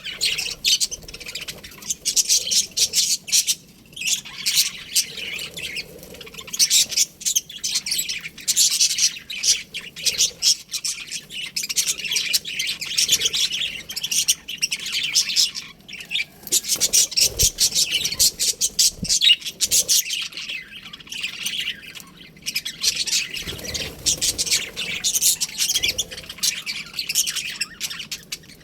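A flock of budgerigars chattering, a dense, unbroken stream of quick high chirps and squawks.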